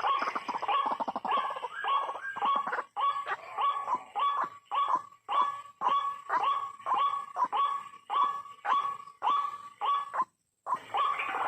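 White-breasted waterhen's repeated croaking calls, a steady series of short harsh notes at about two a second, broken off by a short gap near the end.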